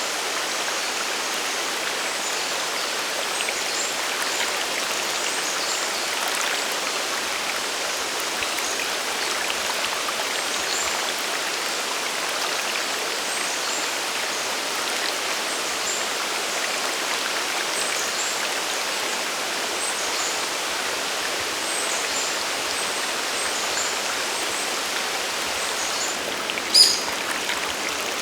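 Steady rush of a mountain stream and waterfall, an even water noise with little deep rumble. A short, sharp high sound stands out about 27 seconds in.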